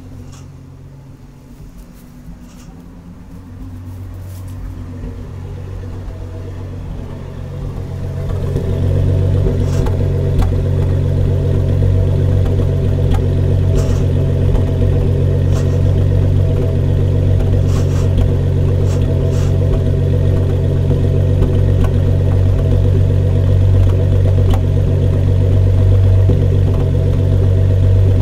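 230 cubic-inch inline-six engine running, getting louder over several seconds, then held steady at a higher, loud level, with a few sharp ticks now and then.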